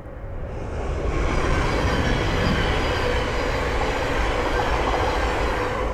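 Thameslink Class 700 electric multiple unit passing at speed: rumble of wheels on the rails and rush of air, building over the first second and then holding steady and loud.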